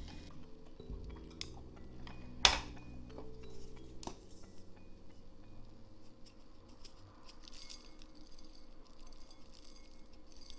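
Light clinks and taps of glassware and kitchenware, with one sharp clink about two and a half seconds in and a run of small ticks later on, over soft background music.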